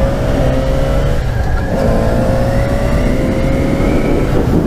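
Yamaha FZ6R 600cc inline-four motorcycle engine accelerating under way. Its pitch climbs, breaks off briefly about a second and a half in at an upshift, then climbs again, under a steady wind rumble.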